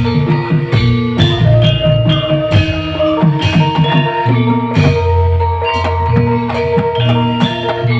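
Live band playing an instrumental passage: hand drums in a quick, steady rhythm under held melodic notes.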